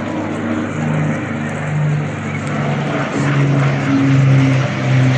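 A Second World War fighter's V12 piston engine running at display power as the propeller aircraft flies past; the engine note shifts in pitch and grows louder as it closes in.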